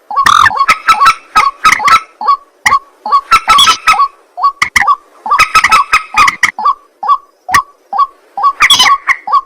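White-breasted waterhen (ruak-ruak) calling: harsh, croaking notes repeated in quick runs, with short gaps and single notes between the runs.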